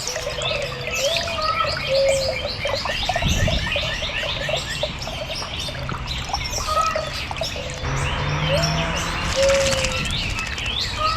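Songbirds chirping in a dense, continuous chorus of rapid high chirps, with a short whistled note repeating every few seconds.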